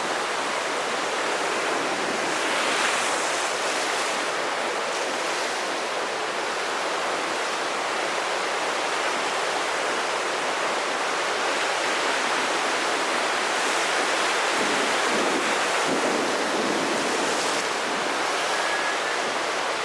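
Heavy surf of a rough sea stirred up ahead of a typhoon: waves breaking in a steady rush, swelling a few times as bigger waves break, with some wind.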